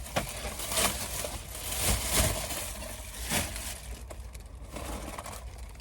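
Plastic shopping bags and packaging rustling and crinkling in several short bursts as items are handled.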